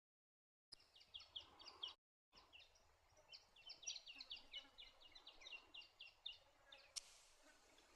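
Songbird calls: a quick run of short, high chirps, broken by a brief gap about two seconds in. The chirping starts a moment after silence and stops about seven seconds in, where a faint steady hiss takes over.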